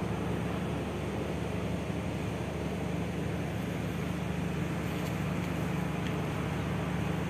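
Steady running rumble of the Kahuripan economy-class passenger train, heard from inside the carriage, with an even low hum under it.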